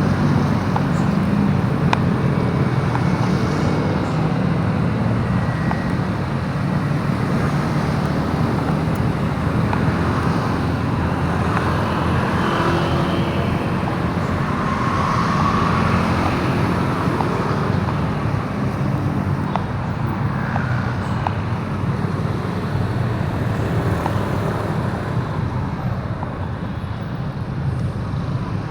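Motorbike running steadily on the road in traffic, a constant low engine and road noise.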